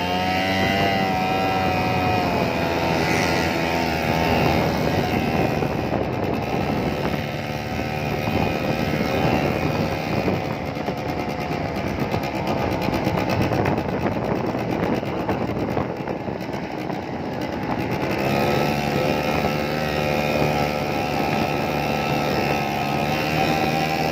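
Motorbike engines running and revving, the engine note wavering up and down. The sound turns rougher and noisier through the middle before the steadier note returns near the end.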